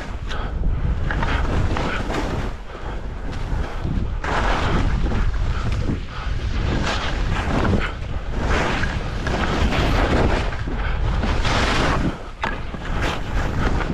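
Wind buffeting the microphone over the hiss and scrape of skis on snow, swelling and fading with each turn every second or two.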